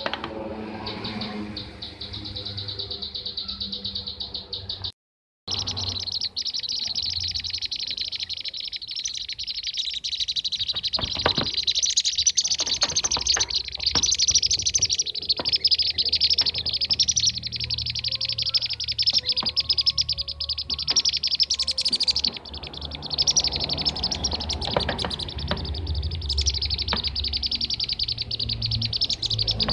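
Bee-eaters (kirik-kirik) calling in a dense, continuous run of rapid high chirps: a lure call recording of the kind used to draw in and tutor the birds. The sound cuts out completely for a moment about five seconds in.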